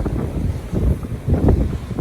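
Wind buffeting the microphone: a heavy low rumble that surges and drops in uneven gusts.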